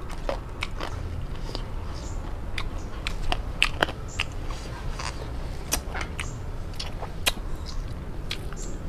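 Close-up chewing and biting of steamed chicken, with many small sharp mouth clicks at irregular intervals.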